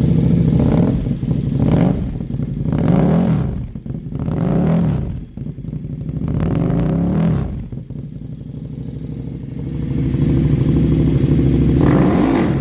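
KTM Super Duke 1290 R's V-twin engine through an Austin Racing full titanium RS22 exhaust, revved in repeated blips, each rising and falling back, then held up at higher revs for a couple of seconds near the end.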